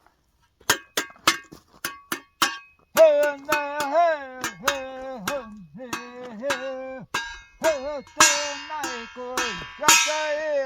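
A man chanting a melody in sliding, wavering notes, each note set off by a sharp knock. About the first three seconds hold only a run of sharp taps.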